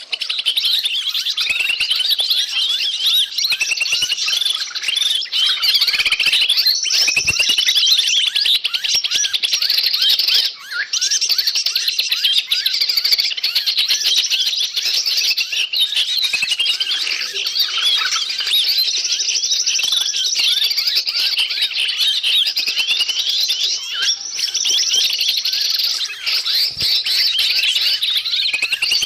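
A dense, noisy chorus of many small birds chirping and trilling at once, calls overlapping without pause apart from a brief dip about ten seconds in. It is a bird-lure (pikat) recording of agitated mixed bird calls, used to draw wild birds in.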